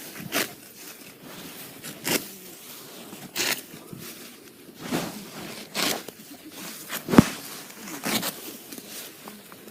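Sickle cutting through rice stalks by hand: short rasping strokes at an uneven pace, roughly one every second or so.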